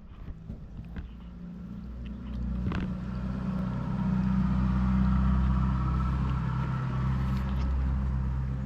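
A motor vehicle's engine running, growing louder over the first few seconds and then holding steady.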